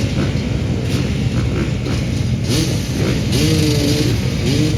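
Several motocross bike engines running together. From about halfway in, engines rev up and down repeatedly.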